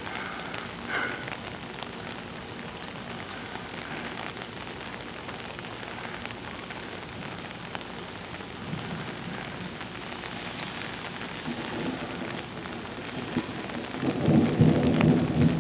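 Steady rain falling through a thunderstorm, with a low rumble of thunder swelling in the last few seconds.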